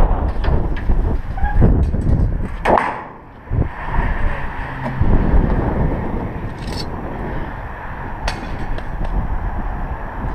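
Strong wind buffeting the microphone, with a few scattered knocks and clanks and one sharper scrape-like sound a few seconds in.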